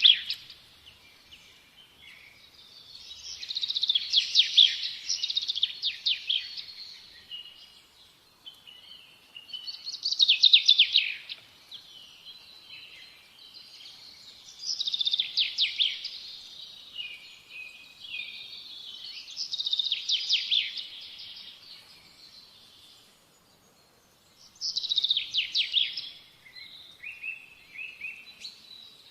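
Songbird singing in repeated phrases of rapid trilled notes, each lasting a couple of seconds and coming every few seconds.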